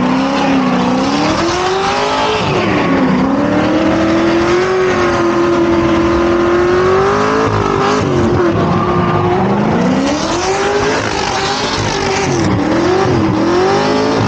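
Drift car's engine revving up and down over and over as the throttle is worked through a drift, with tire noise under it.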